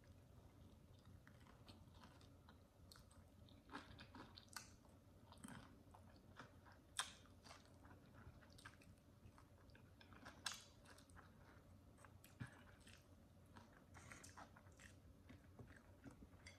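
Faint chewing and biting of fried chicken: soft crackly mouth sounds, with a few slightly louder crunches here and there.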